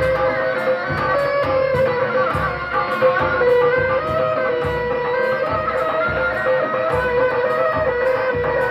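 Live Sundanese benjang accompaniment music: a melody of long held, stepping notes over a steady drum beat of about two strokes a second.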